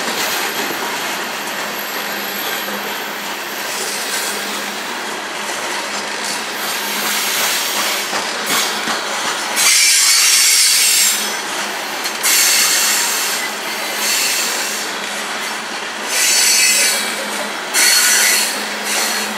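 Freight train of coal cars rolling past, a steady rumble of wheels on rail broken by several bursts of high-pitched wheel squeal, the longest about halfway through.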